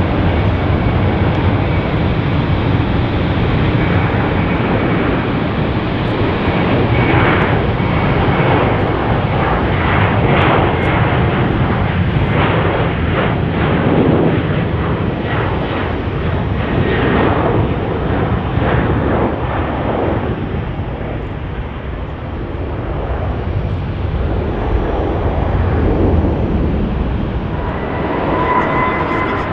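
Boeing 737-800's twin CFM56-7B jet engines passing close by, a loud, steady jet noise with a sweeping, phasing character in the middle as the aircraft goes past.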